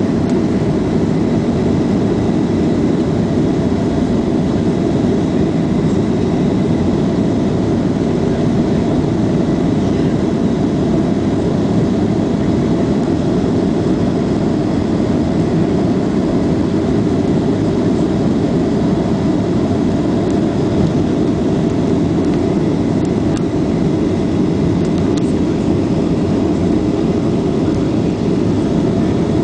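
Steady engine noise inside the cabin of a Boeing 737-800 airliner: a loud, even rumble that stays level with no change in pitch, with a faint high whine over it.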